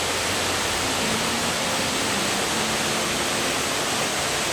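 Lower South Falls, a tall waterfall, pouring steadily: a constant, even rush of falling water.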